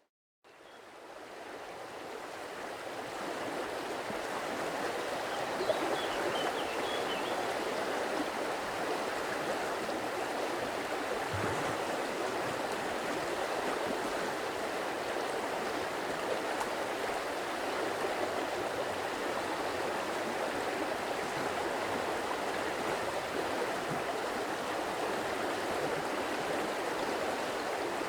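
Water of a stream flowing steadily over rocks, a continuous even rushing with no rhythm. It fades in from silence over the first few seconds.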